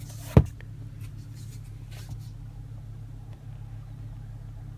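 One sharp click about half a second in, the Range Rover's sun visor mirror cover or visor being snapped shut, over a steady low hum inside the car's cabin.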